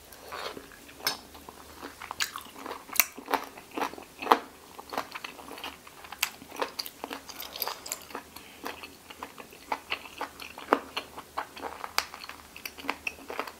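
A person chewing boiled pig's ear close to the microphone, its cartilage crunching in quick, irregular crunches several times a second.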